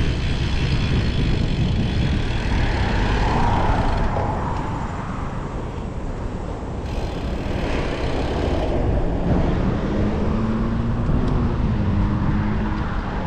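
Road traffic on a city street, cars passing, heard from a moving bicycle, under a steady low rumble. A vehicle's hum swells about three seconds in, and another comes through near the end.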